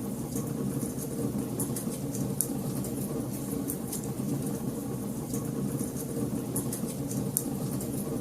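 Fire in a fireplace crackling: irregular sharp little pops, a few each second, over a steady low rush of burning.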